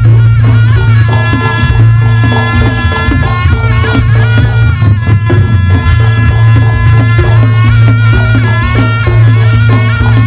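Reog Ponorogo ensemble music: a slompret (reed trumpet) playing a wavering melody over kendang drums and a steady low gong drone, with regular percussive strikes.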